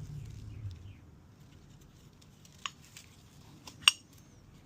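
Small metal clicks of piston rings being turned in their grooves on a piston, with a sharp click a little under four seconds in as the loudest.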